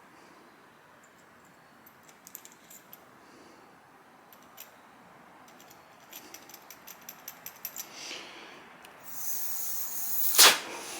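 Small metal carburetor jets and jet drill tools being handled on a workbench: scattered light clicks, taps and rattles. A brief hiss comes near the end, and a single loud clack follows it.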